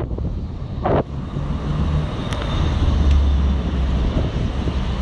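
Wind rushing over the microphone of a camera carried on a bike ride, over the low rumble of a motor vehicle's engine and road traffic. A brief sharp sound cuts in just under a second in.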